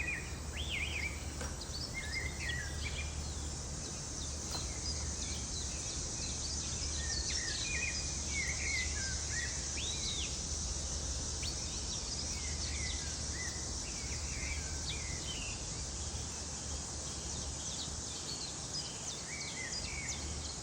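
Outdoor chorus: many short bird chirps and calls over a continuous high-pitched insect drone, with a steady low hum underneath.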